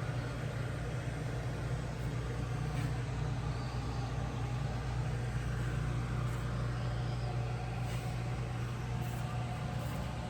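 1968 Chevrolet Camaro race car's engine running steadily at a constant, even idle.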